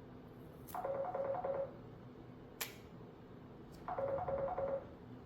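Electronic two-tone telephone ringtone warbling in two rings about three seconds apart, with a single sharp click between them.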